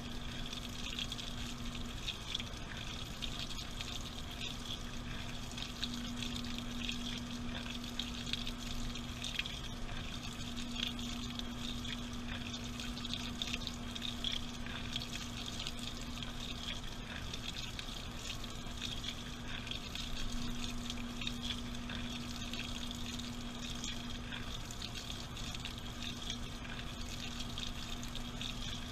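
Water running and splashing inside a washing machine drum, steady throughout, with a low hum that drops out and comes back a few times.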